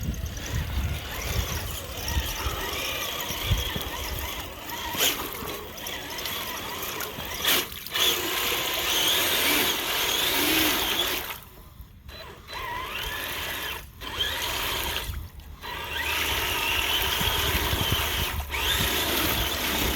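Castle 3800 kV brushless motor of a TRX-4 Sport RC truck whining under throttle as the tires churn through mud and water. The throttle lets off briefly three times in the second half.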